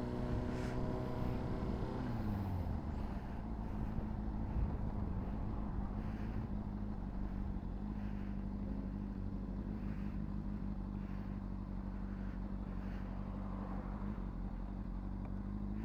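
Honda CBR600RR's inline-four engine, through a Yoshimura slip-on exhaust, running at steady revs while riding; the revs drop about two seconds in, then it cruises steadily at the lower pitch.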